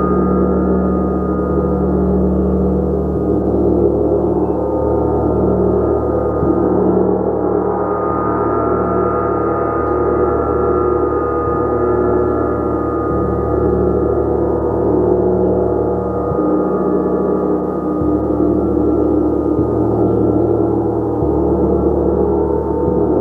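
A gong played continuously, a dense steady wash of many overlapping ringing tones, with the low tones shifting every few seconds.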